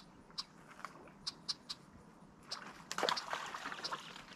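Small birds chirping in short, high notes every few tenths of a second. About two and a half seconds in there is a louder, rough noisy burst lasting about a second.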